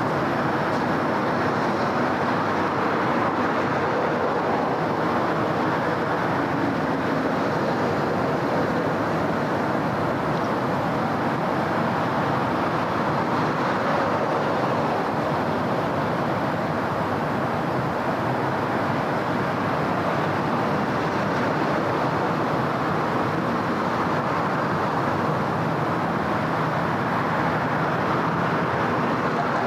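Steady city traffic: a continuous wash of passing cars and tyre noise at an even level, with no single vehicle standing out.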